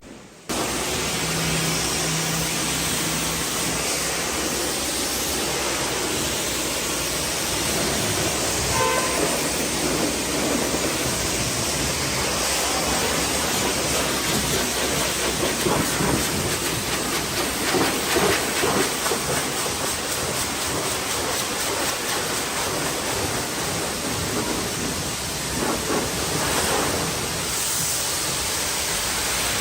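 Pressure washer spraying a steady jet of water against a car's body, a continuous hiss and spatter.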